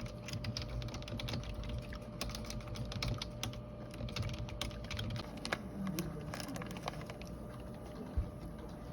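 Typing on a keyboard: quick, irregular key clicks, several a second.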